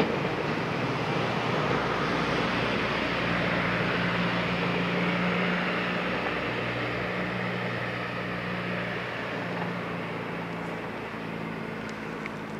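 Rolling noise of a freight train's wagons running away into the distance, fading slowly, with a steady low hum underneath.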